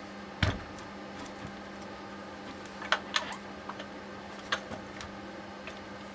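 A few sharp clicks and knocks of parts and tools being handled during steering rack disassembly, the loudest about half a second in and a quick group near the middle, over a steady low hum.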